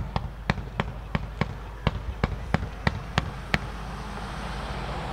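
Display fireworks going off: a rapid run of about a dozen sharp bangs, about three a second. From about three and a half seconds in, a steady hiss rises in their place.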